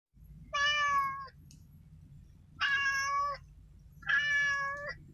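Kitten meowing: three long calls of steady pitch, each just under a second, about a second and a half apart.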